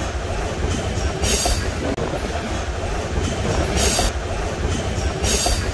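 Narrow-gauge passenger train running, heard from inside the carriage: a steady low rumble of the wheels on the track, with three short hissing bursts.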